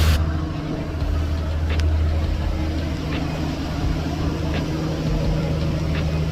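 A ferry's engine running with a steady low drone, and a few faint clicks over it.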